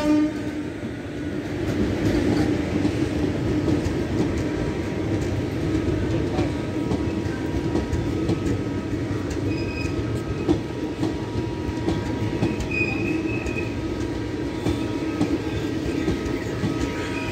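Indian Railways express train's coaches rolling along the platform track: a steady rumble with faint, thin wheel squeal above it.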